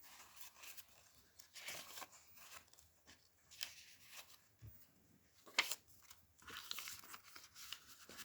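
Paper rustling and crinkling as the pages, booklet and tags of a handmade junk journal are handled and turned, in scattered soft strokes with one sharper snap about halfway through.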